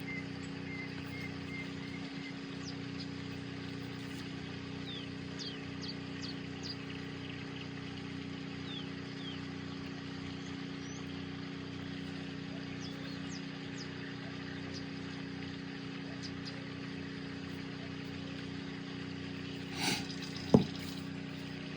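Steady low background hum, with faint light ticks now and then. Near the end comes a short rustle, then a single sharp click.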